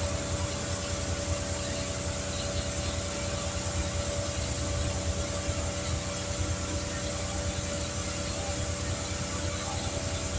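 Air compressor running steadily with a constant hum and hiss while the patched car tire is aired up.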